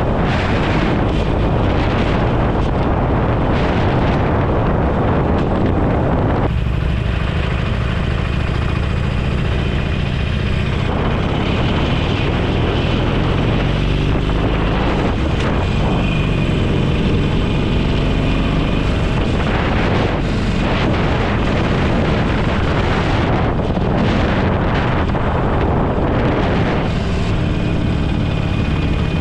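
Motorcycle engine running steadily while riding at road speed, mixed with heavy wind noise buffeting the microphone.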